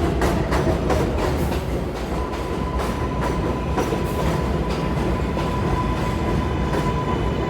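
R142A subway train riding on the rails: a heavy rumble with rail clicks in the first couple of seconds, and a steady high whine that sets in about two seconds in and holds.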